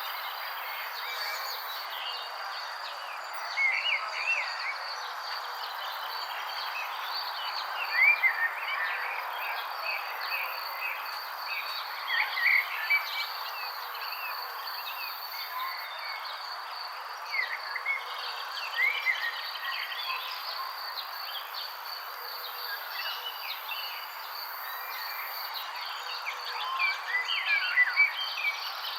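Many small birds chirping and calling in short repeated notes over a steady high insect trill and a constant background hiss.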